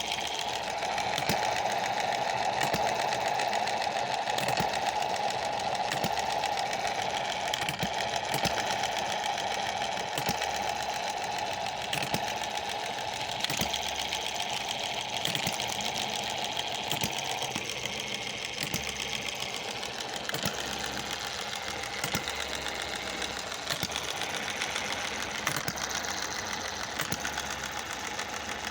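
Small Chinese-made model hit-and-miss engine running, a fast mechanical clatter with sharp knocks at fairly even spacing. A steady hum in the clatter drops away about two-thirds of the way through.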